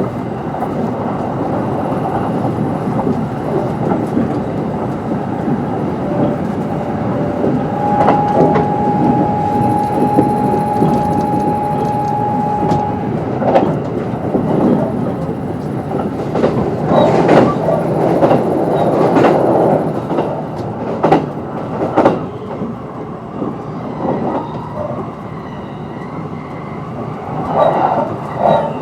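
Kintetsu 22600 series electric train running along the line, with its Mitsubishi IGBT-VVVF drive. The running noise is steady, broken by occasional clacks over rail joints. A steady high tone holds for about five seconds partway through.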